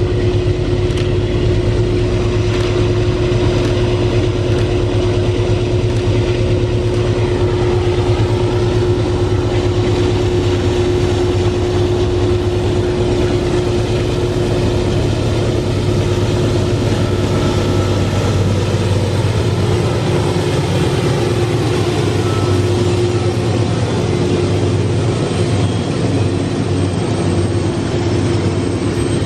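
Heavy freight train hauled by GE/Wabtec AC44i diesel-electric locomotives working up a steep grade: a steady, loud engine drone with a steady mid-pitched tone that fades near the end.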